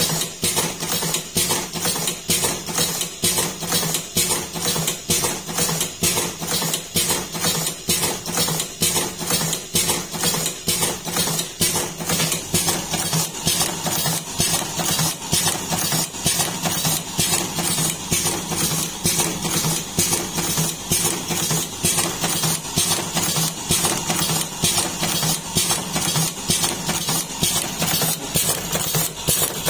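Magnum Super Turbo automatic cigarette filling machine running: a steady motor hum under a regular mechanical clatter of about three strokes a second as it fills tubes.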